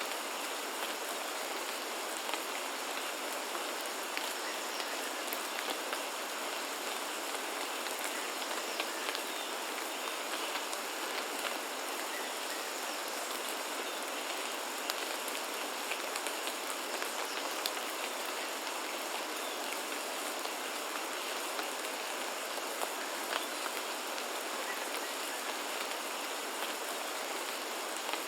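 Steady rain falling, an even hiss with many scattered sharper drop hits.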